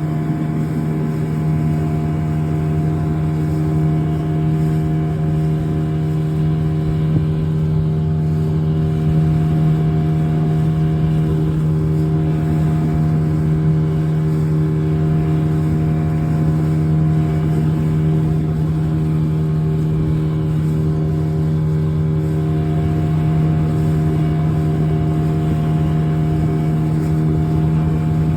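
Boat engine running steadily at constant throttle, an unchanging hum that holds one pitch throughout.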